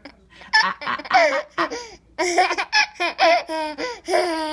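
A 38-week-old baby laughing in several bursts, with short breaks between them.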